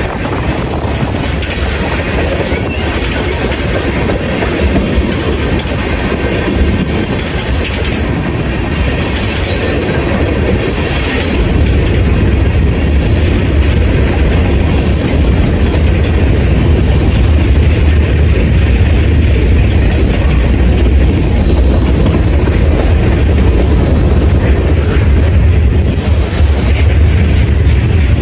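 Passing train: wheels clicking over rail joints above a steady rumble. The rumble grows louder and deeper about twelve seconds in.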